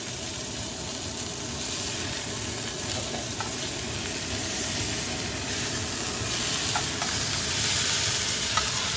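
Flour-dredged soft-shell crabs frying in hot oil in a cast iron skillet: a steady sizzle, with a few light clicks as metal tongs turn the crabs.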